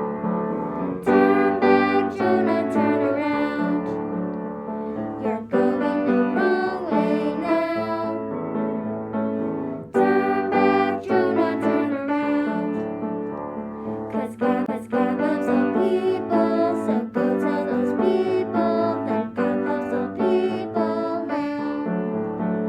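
Piano music: chords and melody notes struck one after another, with no voice prominent.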